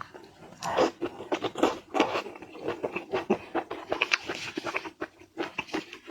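Seafood being eaten close to the microphone: bites, crunches and wet chewing, with many short cracks and clicks.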